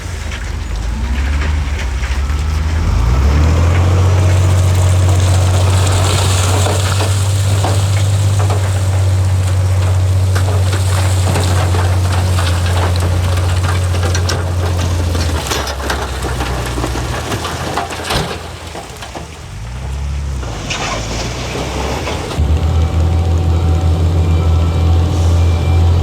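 Heavy diesel construction machinery running, a deep steady engine note with clanking and rattling over it. The engine eases off past the middle, then comes back up to full power about three-quarters of the way through.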